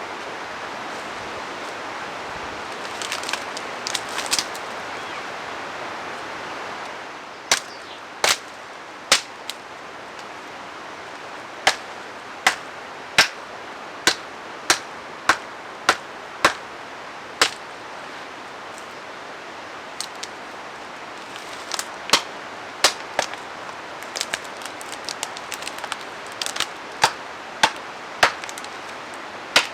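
Wood being chopped: a run of sharp, separate strikes, roughly one a second or a little faster, beginning about seven seconds in over a steady background rush.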